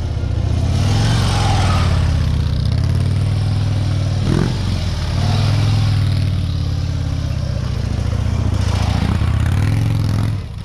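Motorcycle engine running at low speed through a cone drill. The throttle opens and eases in waves, with a brief dip about four seconds in, and the engine falls away near the end.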